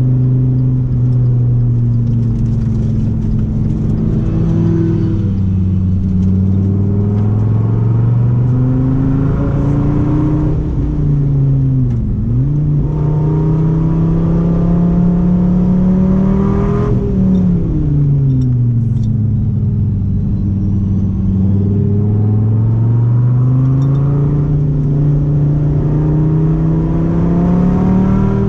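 Dodge Viper V10 engine driven hard under full throttle: long pulls with the pitch climbing steadily, broken by a sharp dip about twelve seconds in and a quick drop about seventeen seconds in as the revs fall and pick up again.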